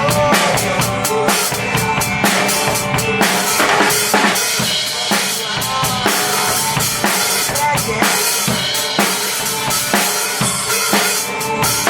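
Drum kit played hard along to a recorded rock song: a fast, steady beat of bass drum, snare and cymbals over the song's track.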